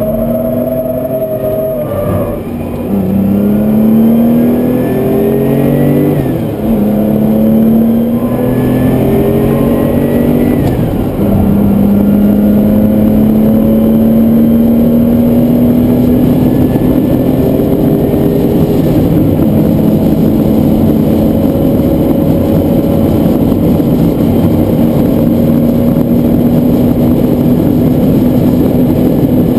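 Porsche 911 Carrera RS's air-cooled flat-six engine accelerating hard, heard from inside the cabin. It upshifts about 2, 6 and 11 seconds in, each time dropping in pitch and climbing again, then pulls in one gear with a long, slowly rising note.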